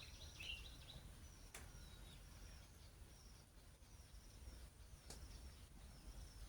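Faint outdoor background with small birds chirping: short high notes repeat throughout, a clearer chirp comes about half a second in, and two sharp clicks sound over a low steady rumble.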